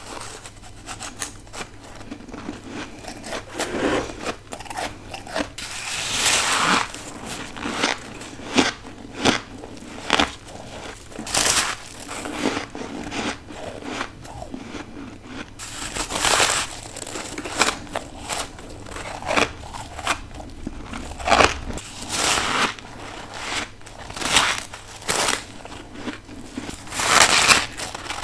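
A person biting into and chewing deep-freezer frost built up with a humidifier. Irregular crisp crunches and crackles run throughout, with louder, longer crunches every few seconds.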